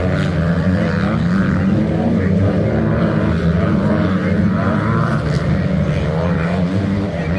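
Several motocross motorcycle engines running together, their pitch wavering up and down as the riders work the throttles.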